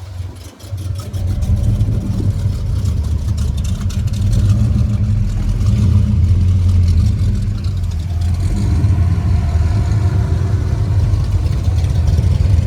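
A car engine running nearby with a steady low rumble that swells up about a second in.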